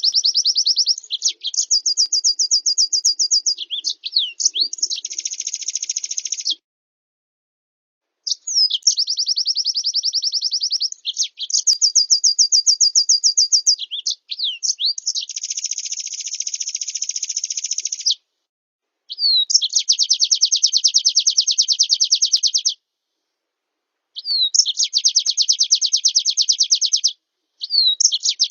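Champion white-eye (pleci) master song, filled in with canary and blackthroat phrases: very fast, high, even trills and quick warbles in long phrases. The phrases break off abruptly into complete silence four times.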